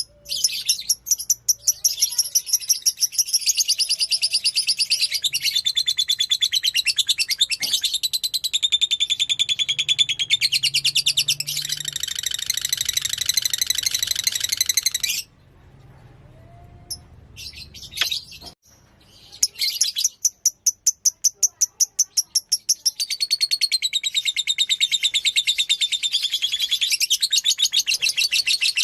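A fighter lovebird singing its long, rapid, high-pitched chattering trill (the 'ngekek' song), used as a bait call to set other lovebirds singing. The trill breaks off for about three seconds past the middle, comes back as a string of separate chirps, then runs into another long trill.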